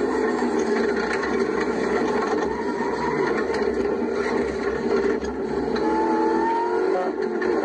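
Rover SD1's V8 racing engine running hard under load, heard from inside the car's cabin. The level dips briefly about five seconds in and again near the end, and the engine note climbs in pitch between the two dips.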